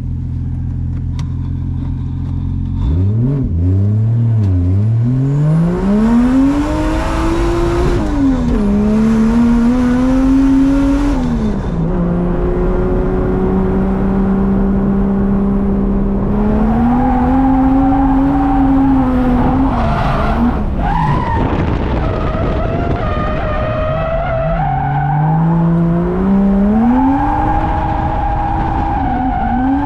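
Drift car engine running steadily low, then revving up about three seconds in, its pitch climbing and dropping again and again with the throttle and gear changes as it drifts, with tyre squeal.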